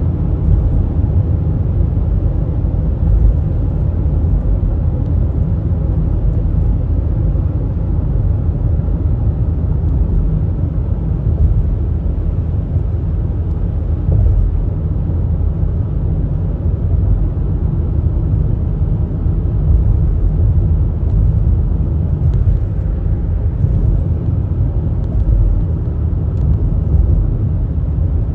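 Steady low rumble of a moving vehicle, even in level with no distinct events.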